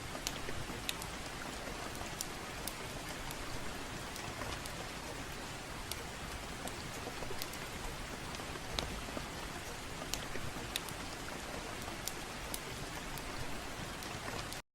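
Steady gentle rain with scattered sharp crackles from a fireplace, cutting off abruptly near the end.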